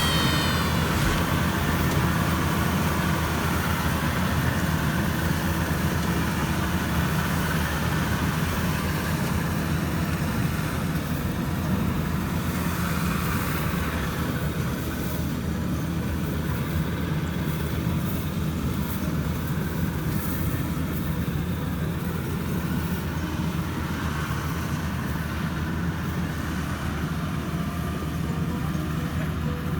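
Maxxi Bimo 102 rice combine harvester's engine running steadily, with no change in speed.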